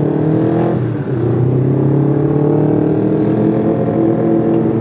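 Honda CBR250RR's parallel-twin engine pulling away at low speed: the revs climb, drop briefly about a second in at a gear change, then climb steadily again.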